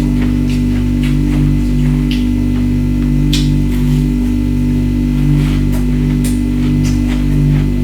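Background music with a steady low drone and a bass line that changes note every half second or so, which is the loudest sound. Over it come several short, sharp crunches of ice being bitten and chewed.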